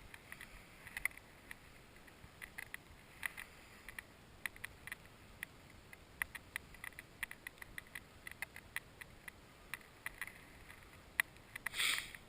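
Wind-driven snow ticking irregularly against a GoPro's housing over a faint hiss, with a short louder rustle near the end.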